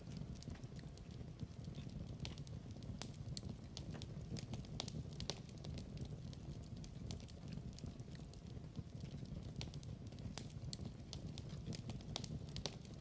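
Log fire crackling: irregular sharp pops and snaps over a steady low rumble of burning wood.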